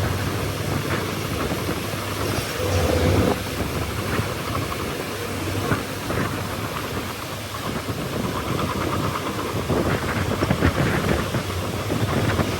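Bulldozer's diesel engine running steadily, with intermittent rattling that grows denser around ten seconds in.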